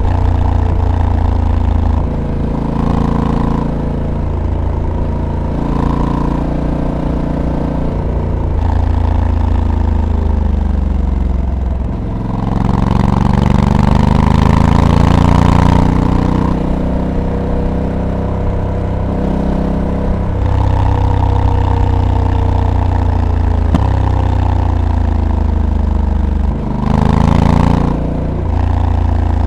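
2022 Honda Africa Twin DCT's 1084 cc parallel-twin engine running under way, its pitch stepping and gliding up and down as the bike accelerates, eases off and shifts. It climbs in a long pull about halfway through, with rushing wind noise rising at the same time.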